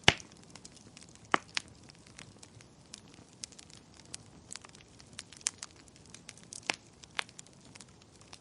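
Fireplace fire crackling: irregular sharp pops and snaps over a faint hiss, the loudest pop right at the start and another just over a second in.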